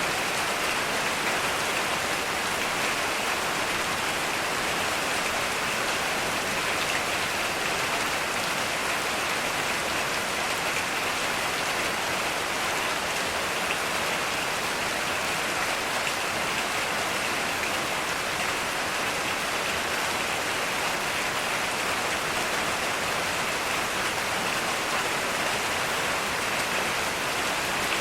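Heavy, steady rain falling, an even hiss of rain with no thunder.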